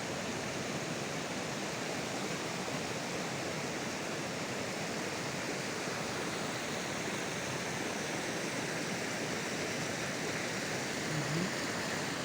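Snowmelt mountain stream rushing down where a waterfall begins, a steady, even roar of water.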